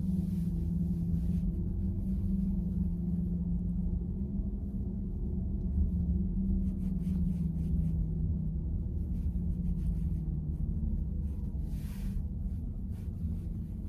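Road and tyre rumble inside the cabin of a moving VW ID.4 electric car, with a steady low hum.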